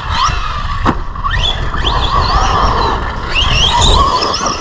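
Brushless electric motor of an Arrma Granite RC monster truck, run on 3S with a 2300 kV motor and 15-tooth pinion, whining in repeated rising and falling sweeps as the throttle is worked, over a steady low rumble.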